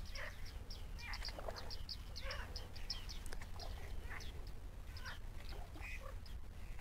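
Wetland birds calling: a rapid run of short high chirps, with lower calls that slide downward every second or so.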